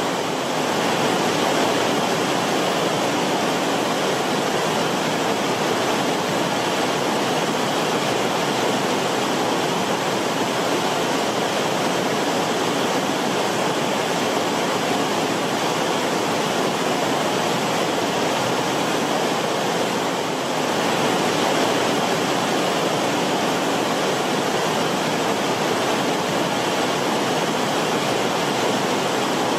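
Creek water rippling and bubbling as it flows over rocks in the creek bed, a steady rushing babble.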